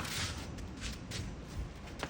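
A sharp click at the very start, then a few short rustling, scuffing scrapes from people moving and handling things while catching the toad.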